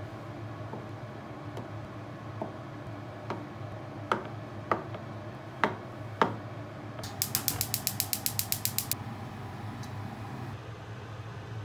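Kitchen knife pushing down through a block of tofu and knocking on a wooden cutting board, six sharp taps over about four seconds. Then a fast run of about fifteen sharp clicks lasting some two seconds: a gas stove's igniter sparking to light the burner.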